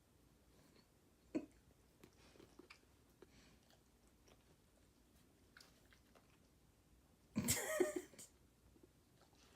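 Dog chewing and mouthing a piece of spinach, with quiet wet smacks and clicks. About three-quarters of the way through comes one loud, rough burst of under a second, like a cough or snort.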